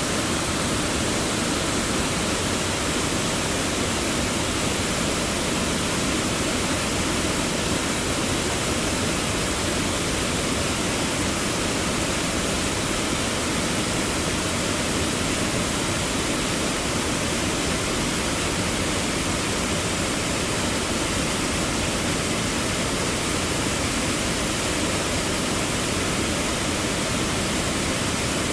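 Steady roar of a waterfall: falling water rushing evenly without a break.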